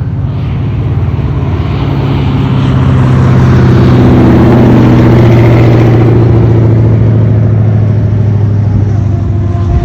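A car engine running, growing louder to a peak about halfway through and then fading, as a vehicle drives past.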